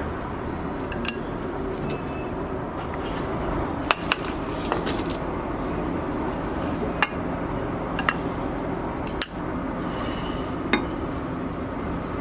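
Dishes and utensils clinking and knocking now and then, about eight separate sharp strikes, over a steady background noise.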